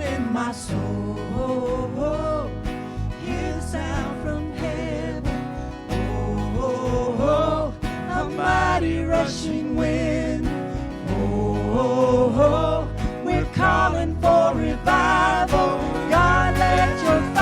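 Church worship song: sung vocals with vibrato over guitar and a steady bass, growing louder toward the end.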